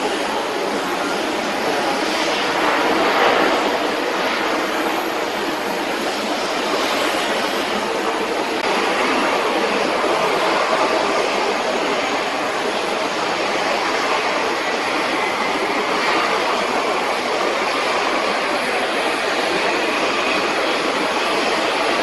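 Airbus A350-900's Rolls-Royce Trent XWB jet engines, a loud, steady rush of noise that swells slightly about three seconds in.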